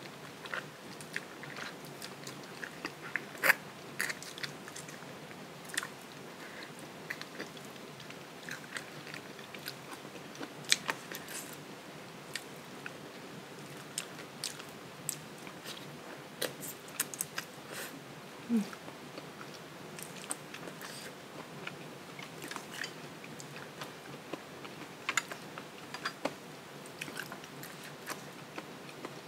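Close-miked chewing and eating sounds of a person eating noodle soup: irregular wet mouth clicks and smacks.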